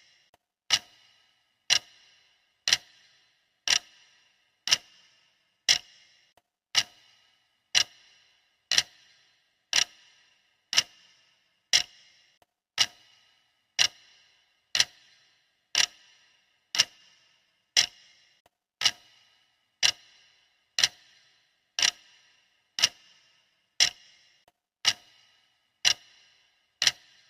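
Clock ticking steadily, one sharp tick a second, each with a brief metallic ring.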